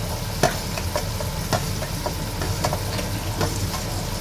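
Chopped chilies frying in hot oil in a pressure cooker, sizzling steadily while a spoon stirs and clinks against the metal pot at irregular intervals, with a steady low hum underneath.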